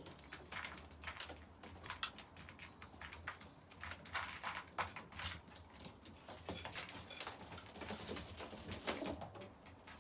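Pigeons feeding, pecking at grain with many quick, irregular taps.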